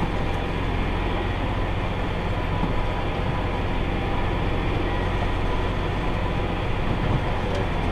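Tractor engine running steadily, a low even drone.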